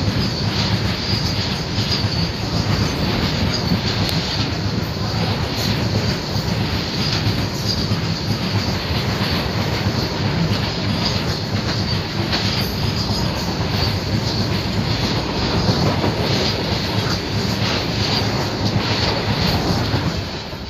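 Coal freight train of open-top wagons passing close by at speed: a steady heavy rumble and clatter of wagon wheels on the rails, with a high wheel squeal running through it. The noise falls away sharply at the very end as the last wagon clears.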